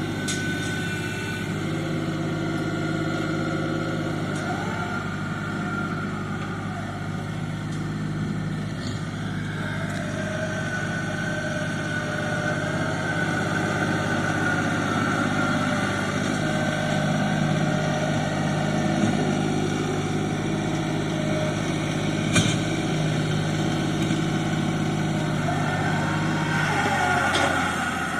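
Tractor engine running steadily, with a single sharp knock or clank late on.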